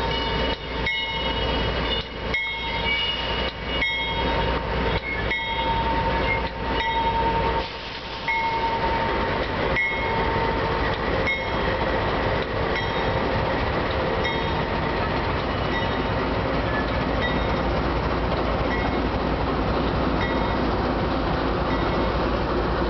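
A diesel-hauled train rolling past, with the locomotive giving way to a long string of freight cars, in a steady rolling rumble. High steady tones ring over it in the first half and fade out, and the sound then evens out into the plain rolling noise of the cars.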